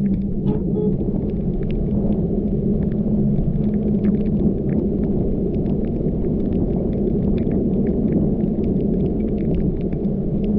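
Car driving in the rain, a steady low rumble of engine and tyres on a wet road, with scattered ticks of raindrops striking the car.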